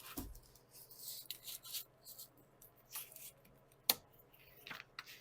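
Sound deadener sheet being handled and cut: faint intermittent crinkling and rustling, with one sharp click about four seconds in.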